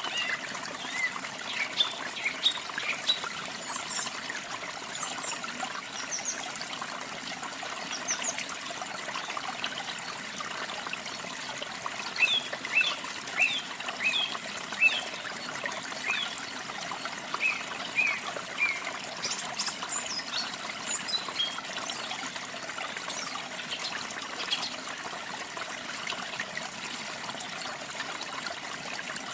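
Steady trickling of running water, with small birds chirping over it in short bursts of quick high notes, busiest in the first few seconds, through the middle and again just past two-thirds of the way.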